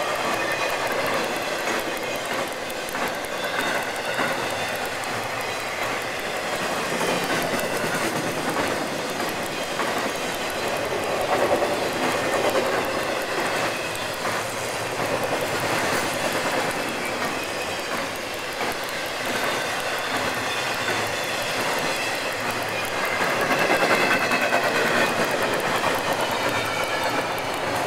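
Freight train cars rolling past: a steady rumble and rattle, with wheels clicking over rail joints.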